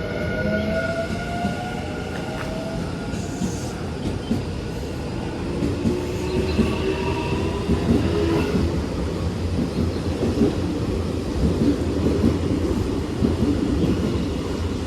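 Electric commuter train pulling away and accelerating: its motor whine climbs in pitch in steps, and in the second half the wheels click over rail joints as it picks up speed.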